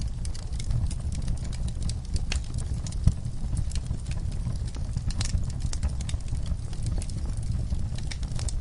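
Wood fire in a fireplace crackling, with irregular sharp pops over a steady low rumble of the flames; one louder pop about three seconds in.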